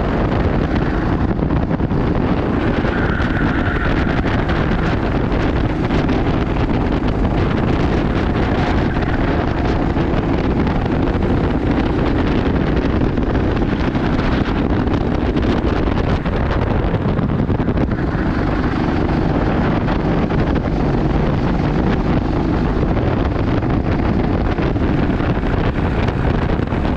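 Wind rushing over the microphone, a loud steady noise, with the drone of kart engines beneath it.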